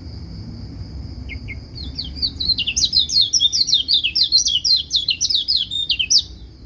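Yellow white-eye (pleci kecial kuning) singing a rapid twittering run of fast, jerky high notes for about four seconds, which stops suddenly. It sounds over a steady high insect buzz like a cricket's.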